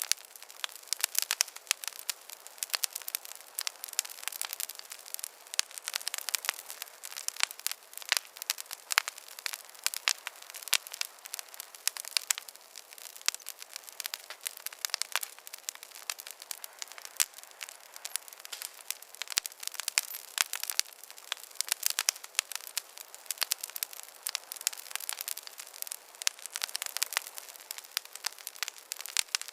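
Wood campfire crackling: a dense, continuous run of sharp snaps and pops, many each second, with no low rumble beneath.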